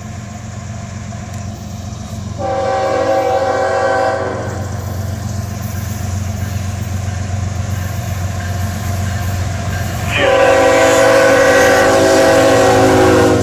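Air horn of a CSX freight train's lead diesel locomotive sounding a short blast and then, near the end, a longer and louder one. Under the horn runs the steady rumble of the approaching locomotives.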